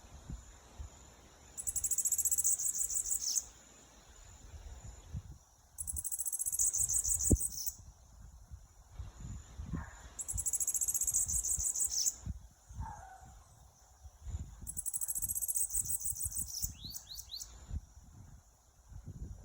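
Bananaquit (sibite) singing: four high, thin, buzzing trills of about two seconds each, spaced a few seconds apart, with a few quick high notes after the last one. A low rumble runs underneath.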